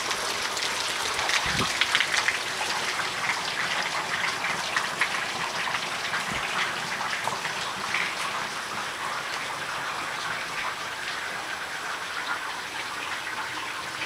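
Rain falling, a steady hiss of water with many small drop ticks, easing slightly in the second half.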